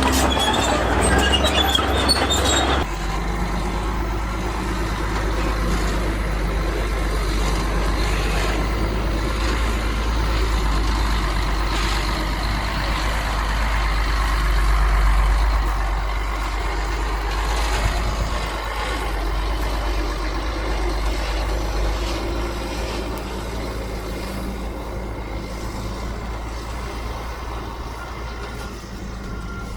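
Heavy diesel earthmoving machinery running with a steady low engine rumble. The sound changes abruptly about three seconds in, and there is a single sharp knock about eighteen seconds in.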